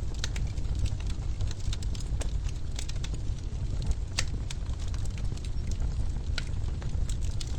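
Wood fire burning in a fireplace: a steady low rumble of the flames with irregular sharp crackles and pops from the logs, a couple of louder snaps about four seconds and six seconds in.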